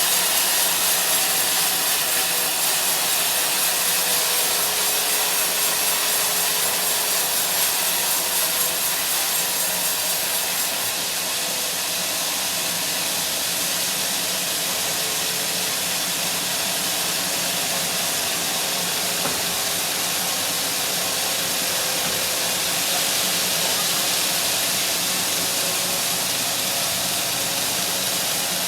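Sawmill saw cutting steadily lengthwise through a teak log, a continuous hissing rasp of the blade in the wood that eases slightly in its highest part about a third of the way through.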